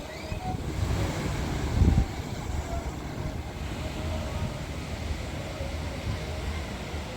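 Steady low rumble of wind on the microphone over distant surf, with a louder gust about two seconds in.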